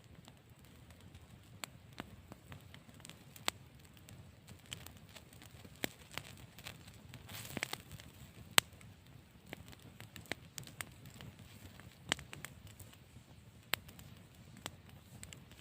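Campfire crackling, with sharp irregular pops and snaps of burning wood.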